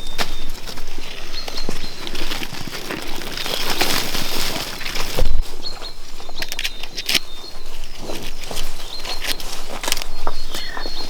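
Outdoor farmyard sounds: irregular knocks, clicks and rustling, with a heavier thump about five seconds in and faint bird chirps.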